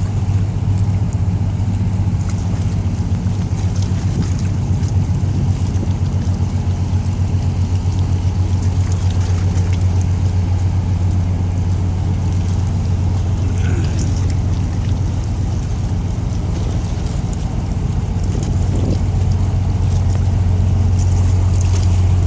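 Boat engine running steadily: a low, even drone with a fast pulsing beat.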